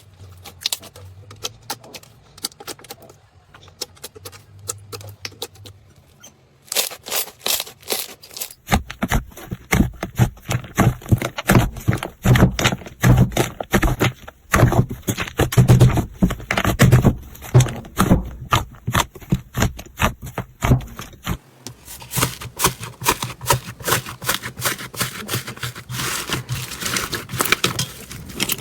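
Slime being squeezed and pressed by hand, giving runs of rapid sticky clicks and crackles. It is faint and sparse at first, much louder and denser after several seconds, then changes to finer, higher crackling near the end.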